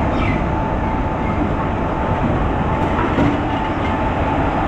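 An Indian Railways electric locomotive hauling a passenger train rolls past along a platform. Wheels rumble on the rails under a steady thin tone.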